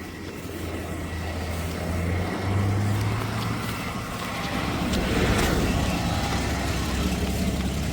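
Car engine revving under load as the car is driven out of a ditch of deep snow; the revs step up about two seconds in and it gets louder again around five seconds in.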